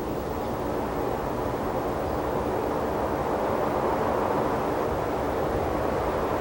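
Steady, even rushing noise with no distinct events, slowly growing louder.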